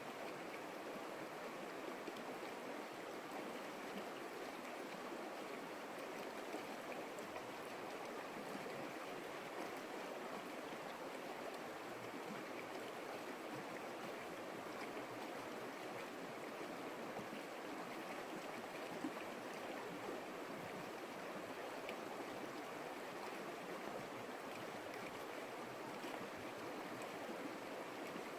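Creek water flowing in a steady, even rush, with no change over the whole stretch.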